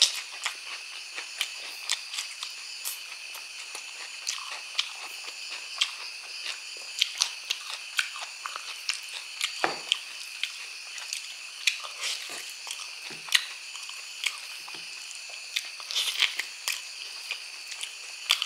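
Close-miked wet chewing and smacking of sticky braised pork trotter and rice, full of sharp mouth clicks and soft crunches. Under it runs a steady high-pitched background drone.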